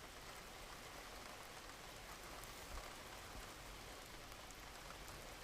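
Faint, steady rain falling, an even hiss with no thunder.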